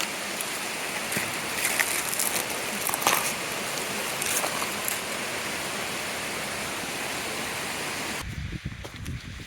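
Steady rain hiss with a few sharper drop sounds, cutting off suddenly near the end, after which a few soft low thumps are heard.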